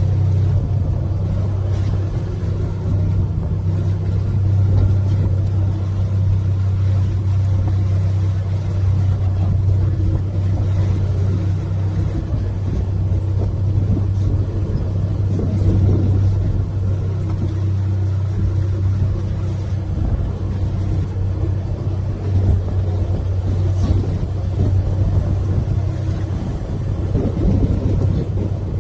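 Canal tour boat's engine running steadily at cruising speed, a low even hum.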